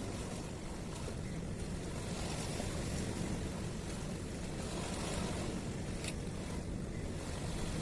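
Steady low rumble of harbour ambience: sea water and wind, with no distinct events apart from a faint tick about six seconds in.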